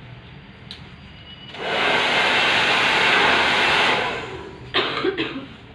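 A handheld hair dryer blows steadily for about two and a half seconds, then cuts off. A short, rougher burst of noise follows about a second later.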